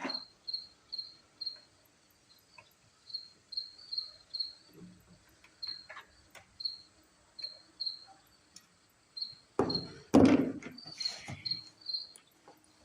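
A cricket chirping in a steady high pulse, about two chirps a second. A few light knocks and a louder clatter of handling noise come about ten seconds in.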